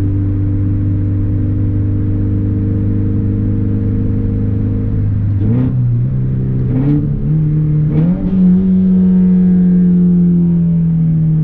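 Scion FR-S's flat-four engine through a muffler- and resonator-delete exhaust, loud and steady at cruise. About halfway through its pitch jumps up in three quick steps, each with a short sharp blip, as on downshifts. It then holds at higher revs and slowly drops toward the end.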